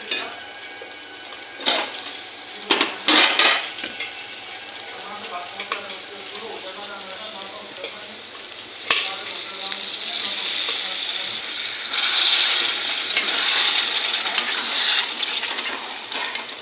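Chicken curry with potatoes sizzling in a pan as it is stirred, with knocks and scrapes of the spoon against the pan about two and three seconds in. The sizzling grows louder from about nine seconds in.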